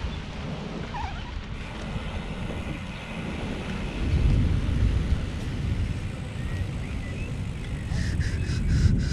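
Wind buffeting the microphone while a mountain bike is ridden: a low, steady rumble that swells about four seconds in and again near the end, with a few light clicks near the end.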